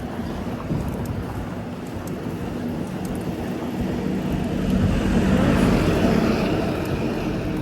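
Road traffic with a motor vehicle passing close by, swelling to its loudest about five to six seconds in and then fading.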